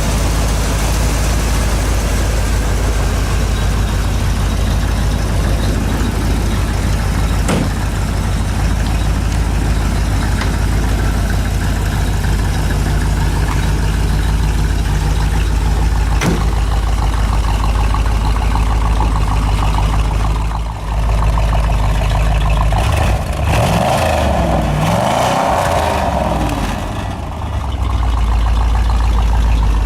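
1971 Chevrolet Corvette Stingray's V8 engine idling steadily, with a few quick revs about three-quarters of the way through.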